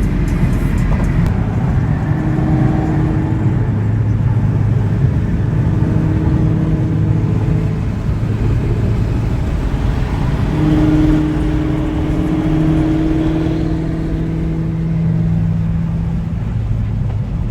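Car driving, with a steady low engine and road rumble; the engine's pitch holds for a few seconds at a time and then shifts.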